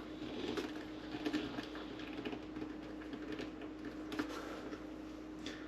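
Faint, scattered clicks and small scrapes of a hand screwdriver turning screws into the plastic bottom cover of a coffee maker, over a faint steady hum.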